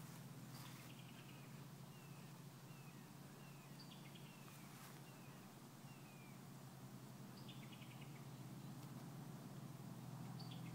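Faint bird calls: short downward-sliding chirps about once a second, and now and then a call that opens with a high note and runs down in a quick series of notes, over a low steady hum.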